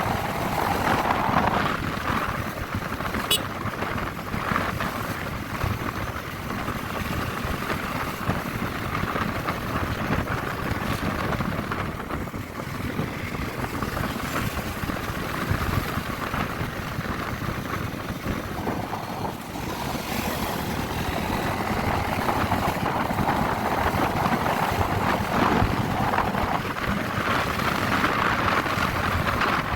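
Honda CB150R's single-cylinder engine running on the move, with wind rushing over the microphone.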